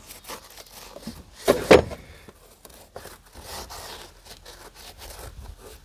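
Hands-on workshop handling noises: scattered light knocks, clicks and scrapes, with one louder thump about one and a half seconds in.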